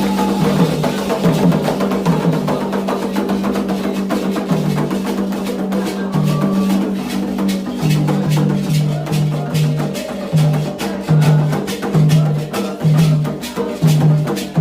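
Candomblé drumming: drums and other percussion playing a steady rhythm. The deep drum strokes stand out more clearly in the second half, about two a second.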